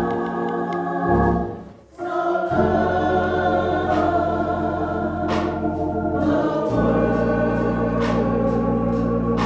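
Gospel church choir singing a slow song of invitation, with organ accompaniment. The music briefly breaks off about two seconds in, then the chords resume and are held.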